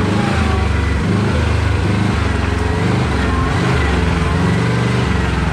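Side-by-side UTV engine running on a trail, its note shifting up and down in short steps as the throttle changes.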